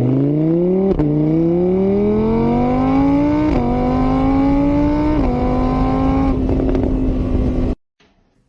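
A vehicle engine accelerating hard through the gears. Its pitch climbs and drops back at each of three upshifts, then holds steady before cutting off suddenly.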